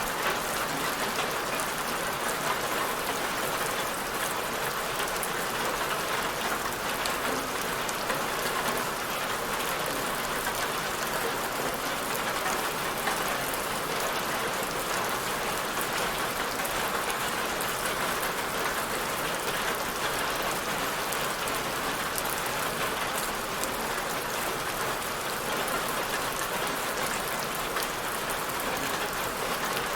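Steady rainfall, a continuous even hiss of rain with fine scattered patter of drops.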